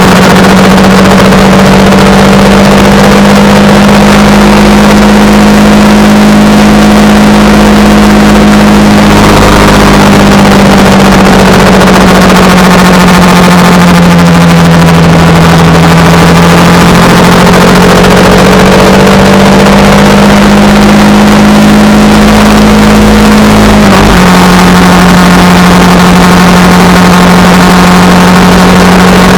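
Honda Rebel 300 single-cylinder motorcycle engine running at a steady cruise, with heavy wind rush on the microphone. Its pitch sags a little in the middle, then changes abruptly near the end, as at a gear change.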